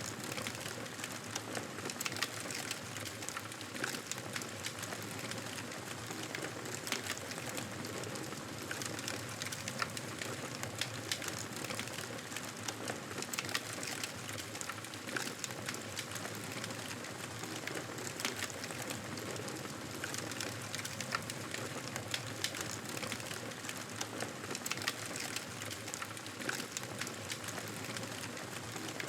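Wood fire in a fireplace crackling: irregular sharp pops over a steady hiss.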